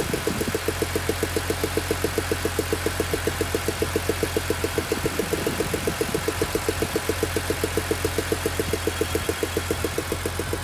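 BMW E46 M3's S54 3.2-litre straight-six idling warm, with an even, rhythmic ticking of about seven beats a second: the strange engine noise that shows up once the engine is warm.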